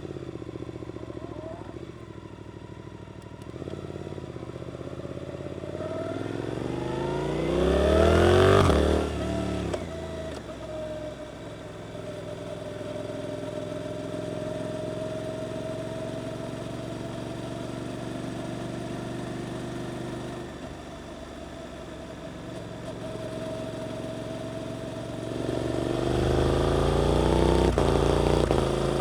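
Suzuki GSX-8S parallel-twin engine through an Arrows performance exhaust, heard from on the bike while riding. The revs climb hard to a loud peak about a third of the way in and then drop as the throttle closes. The engine then runs steadily for a while and climbs again under acceleration near the end.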